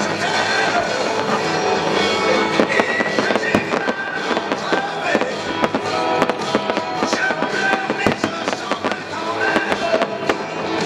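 Fireworks bursting, many sharp bangs and crackles in quick succession, over loud music.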